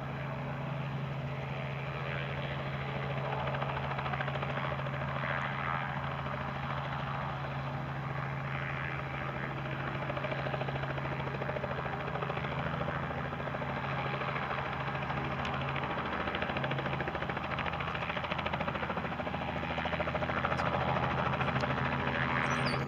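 Robinson R44 helicopter's piston engine and rotor running with a steady drone, growing slowly louder toward the end.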